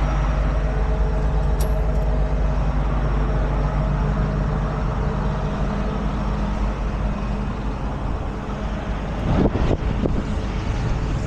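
Heavy truck engine running steadily at a constant low pitch, with a short clatter of knocks near the end.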